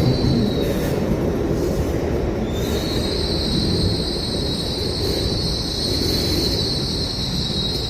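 Class 801 electric train's wheels squealing as it moves through the station, a steady high-pitched squeal over the low rumble of the train. The squeal fades about a second in and comes back slightly higher from about three seconds in.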